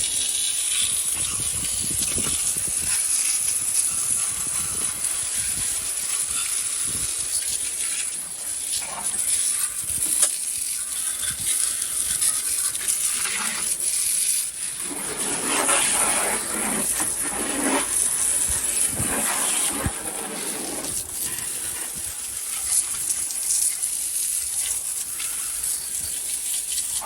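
Water spraying from a hose nozzle onto the engine, a steady hiss that turns fuller and lower for a few seconds in the middle as the spray hits different parts, and cuts off at the end.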